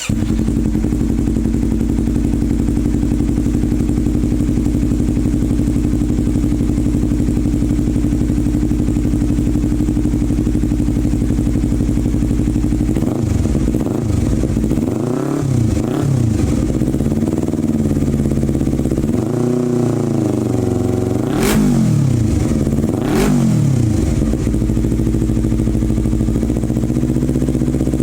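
A motorcycle with an Akrapovic aftermarket exhaust, modified with an inner mesh baffle, idling steadily after being started. In the second half the throttle is blipped about five times, each rev rising and falling in pitch, the last two quick and sharp, before it settles back to idle.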